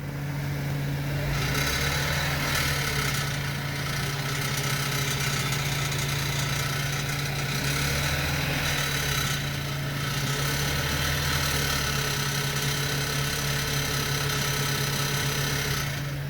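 2007 BMW 525i straight-six idling steadily, with a constant rattle from the exhaust that sounds like BBs bouncing around. Heat shields and the belt tensioner have been ruled out as its cause.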